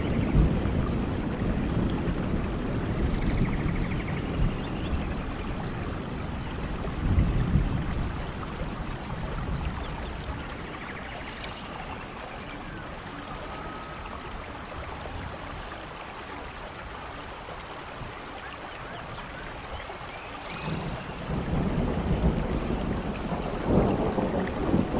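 Steady rain with thunder rumbling low, heaviest near the start and again near the end.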